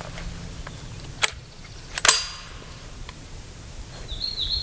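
Shotgun action being worked by hand: two sharp metal clacks about a second apart, the second louder and ringing. A small bird chirps high near the end.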